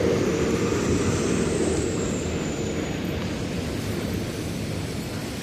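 Subway train rumbling on the elevated tracks, its sound fading steadily as it pulls away.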